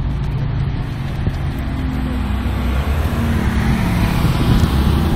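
Ferrari F430's V8 engine running at low speed as the car rolls slowly past, a steady low engine note that grows a little louder near the end.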